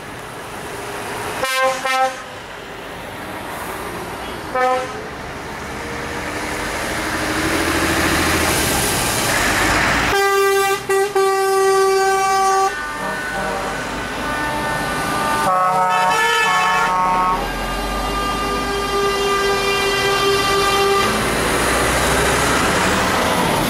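Trucks in a convoy driving past with engines running and horns sounding. There are short toots about a second and a half in and again near five seconds, then long horn blasts at several pitches, some overlapping, through the second half as the engine rumble grows louder.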